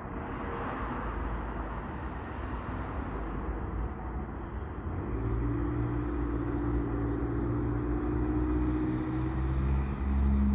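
CSX intermodal freight train's double-stack container cars rolling slowly past, a steady low rumble. About halfway through, a low steady hum joins and the sound grows louder, its pitch shifting near the end.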